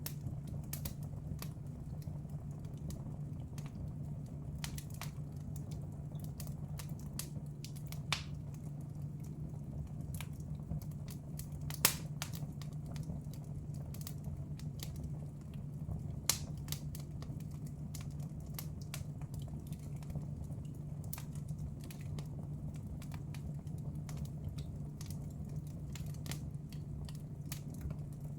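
Wood fire burning in a fireplace, crackling with irregular small snaps and a few louder pops, the sharpest about twelve seconds in, over a steady low hum.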